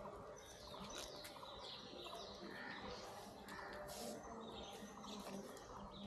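Birds chirping and calling faintly, many short sweeping notes overlapping.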